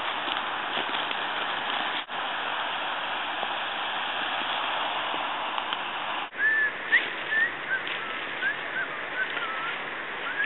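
A steady outdoor hiss, then from about six seconds in a string of short, quick chirping bird calls over it.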